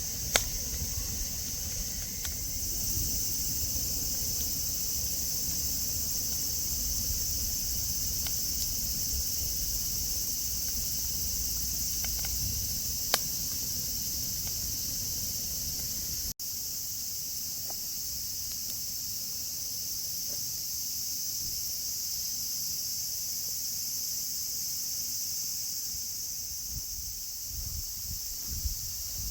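Steady, high-pitched chorus of insects droning without a break, over a low rumble, with a couple of sharp clicks.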